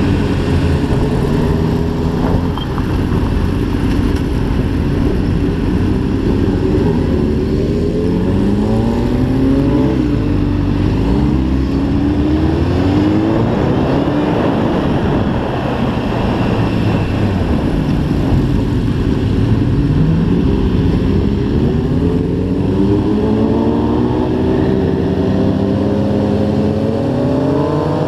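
Sport bike engine heard from the rider's seat, pulling up through the gears: its pitch climbs and drops back at each shift several times, and climbs again near the end. Steady wind rush runs underneath.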